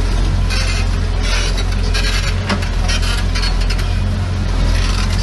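Heavy diesel construction machinery running steadily, with a dense run of clinking and rattling over the engine drone, like stones or steel parts knocking together.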